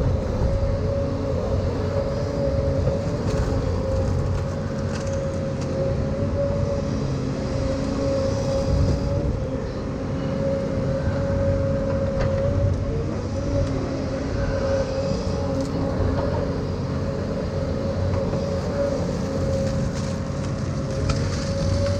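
Excavator's diesel engine running steadily, with a steady whine held over the rumble.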